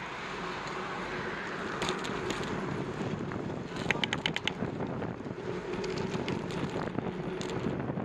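Wind noise on the microphone of a bicycle rider setting off in a stiff, cold wind. About four seconds in there is a short, quick run of ticks.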